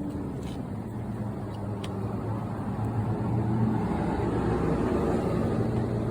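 A motor vehicle's engine running nearby, a steady low hum with road-like noise that grows louder from about two seconds in and then holds.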